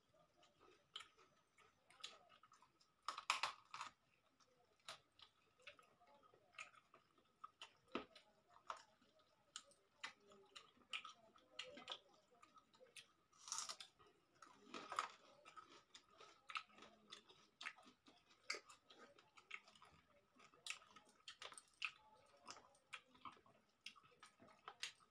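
Faint chewing and mouth sounds of people eating rice and chicken curry by hand, with scattered small clicks and taps of fingers and food on steel plates, a few louder than the rest.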